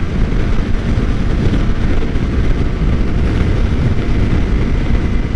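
Steady wind rush on a motorcycle rider's microphone at highway speed, over the running of a 2013 Suzuki GSX-R600's inline-four engine.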